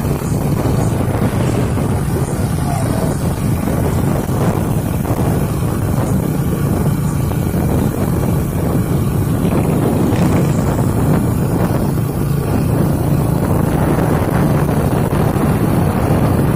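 Truck engine running steadily, with wind buffeting the microphone.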